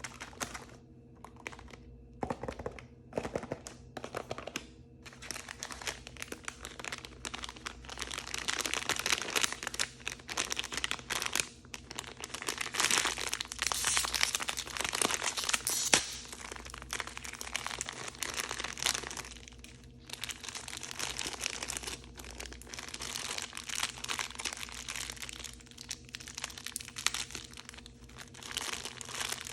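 Blind-bag packaging being handled and torn open by hand: a dense, irregular run of crinkling and crackling wrapper, busiest in the middle, over a faint steady hum.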